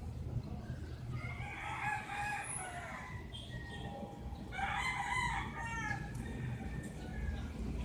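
Rooster crowing twice, each crow a long call of a second or more, over a steady low background rumble.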